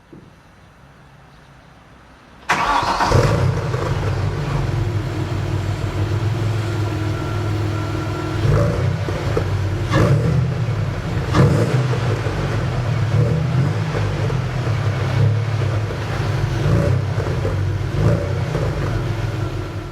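Opel Vectra B's 2.6 V6 engine starting about two and a half seconds in, then running steadily through a Jetex Group A exhaust with its pre-cats removed, with a few short peaks.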